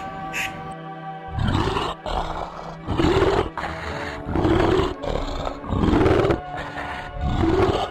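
A big cat roaring: a series of five deep, rough calls about a second and a half apart, with background music underneath.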